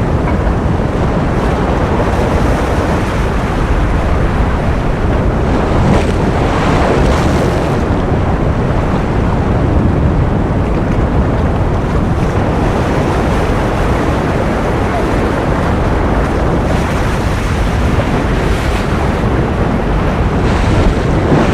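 Ocean surf as a continuous rushing noise, swelling brighter every few seconds as waves break.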